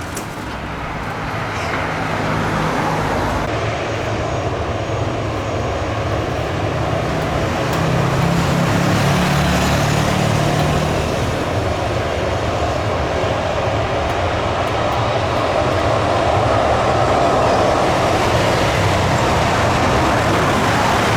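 Jet airliner engine noise: a steady, loud rumble that grows gradually over the first several seconds and then holds.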